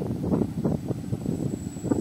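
Electric multiple-unit (EMU) local train pulling into the station, its wheels rumbling and clattering on the rails.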